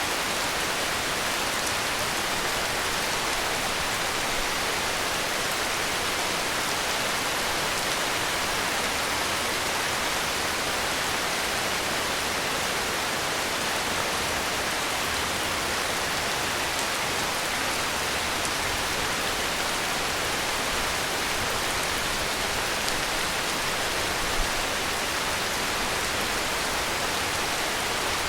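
Heavy rain falling steadily, an even, unbroken hiss with no distinct drops or thunder. One tiny tick near the end.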